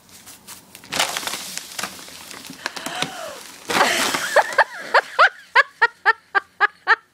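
Wood cracking and branches and leaves rustling as a tree is shoved over and breaks. From about four and a half seconds in, a person laughs hard in rhythmic bursts, about three a second, and the laughter is the loudest thing.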